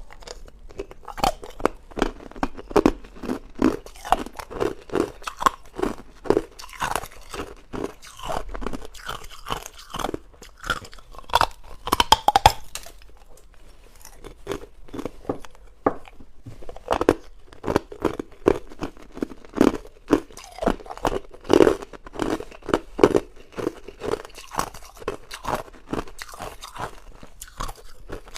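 Close-up crunching of hard ice being bitten and chewed, a rapid run of short, sharp crunches several times a second, with a brief lull about halfway through.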